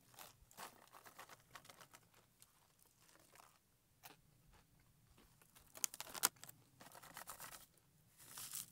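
Faint crinkling of a plastic MRE pretzel packet and scattered crunches of pretzels being eaten, with a brief burst of rustling about six seconds in and again near the end.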